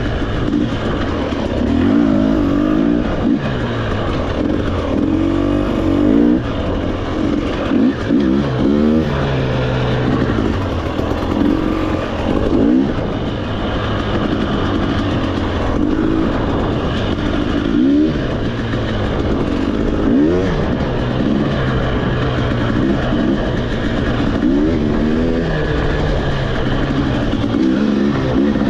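Off-road motorcycle engine running on a trail ride, its pitch rising and falling again and again as the throttle is opened and closed.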